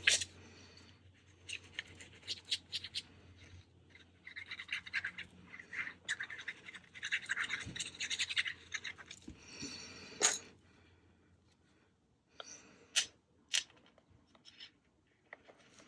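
Paper being handled and rubbed in short scratchy stretches, with a few light taps.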